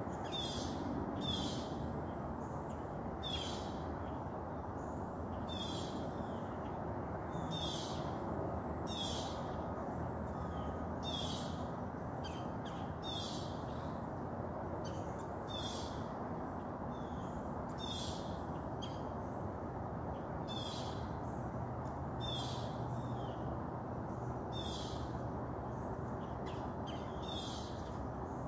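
A bird repeatedly giving short, high, down-slurred calls, about one a second, over a steady low background rumble.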